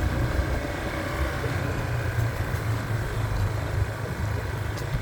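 Motorcycle engine running steadily at low speed on a rough dirt track.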